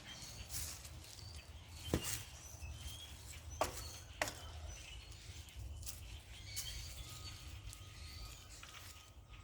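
Faint bird chirps over a low steady rumble, with a few sharp knocks about two, three and a half, and four seconds in.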